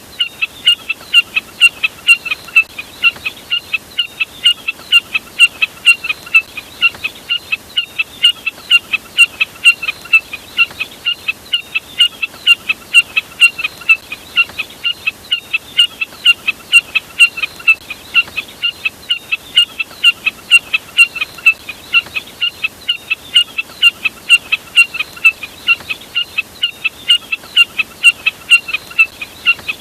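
Recorded jack snipe call: short, sharp, high notes repeated steadily at about two to three a second, without a break.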